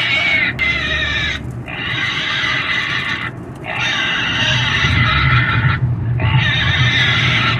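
A pig squealing in long, loud screams, one after another with short breaks between them, about four in a row.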